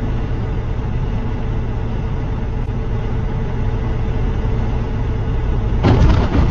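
Vehicle engine running with a steady low rumble; about six seconds in, a louder, harsher rush of noise rises over it.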